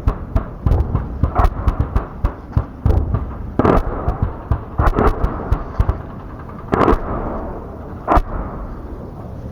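Gunfire at a live-fire exercise: a string of sharp shots at irregular intervals, some close together and some a second or more apart, over a steady low rumble.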